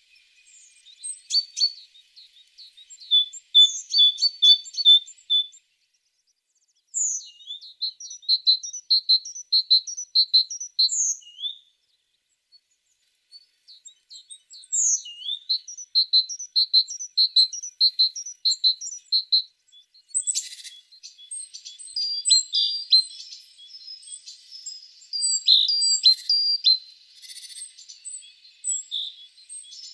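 A tit singing: runs of quick, high, repeated notes lasting a few seconds each, broken by brief pauses. From about two-thirds of the way in, busier overlapping chirps and calls join in.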